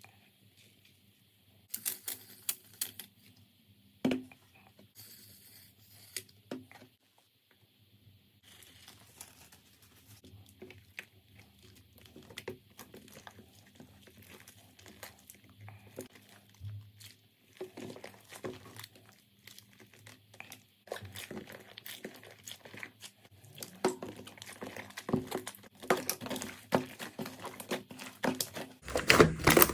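Slime being squished and pulled by hand, making crackling and popping sounds: scattered clicks at first, growing into dense, louder crackling near the end.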